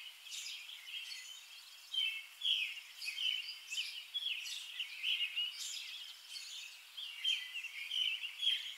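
Small birds chirping: short, high calls repeating about one or two a second.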